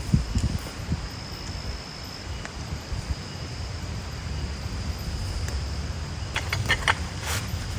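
Rainforest ambience: a steady thin high insect tone over a low rumble, with a short cluster of sharp clicks or taps near the end.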